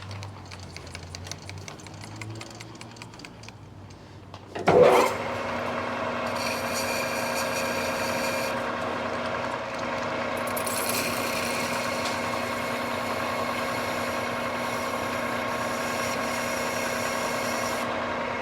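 Light clicking and handling of tooling, then about five seconds in a Precision Matthews metal lathe starts with a sudden jolt and runs steadily with a gear whine. A higher hiss comes and goes over the running machine, twice.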